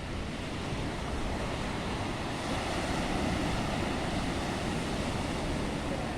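Stormy Black Sea surf: waves breaking and washing in a steady rushing roar, swelling a little louder a few seconds in, with wind.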